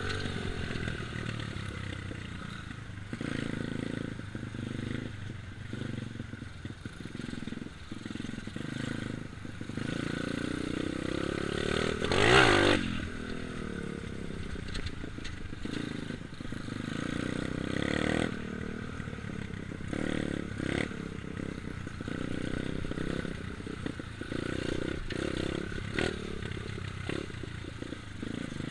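Dirt bike engine running as it is ridden, its pitch rising and falling with the throttle. About twelve seconds in it passes close by and is loudest, the pitch sweeping as it goes past.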